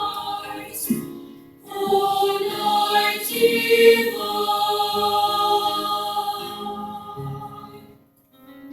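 School choir singing held chords, with a short break about a second and a half in. The last chord dies away near the end.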